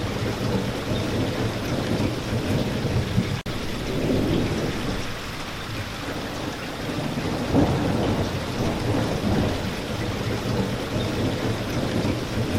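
Steady rainfall with low, rolling thunder that swells and fades a couple of times. A split-second break in the sound comes about a third of the way in.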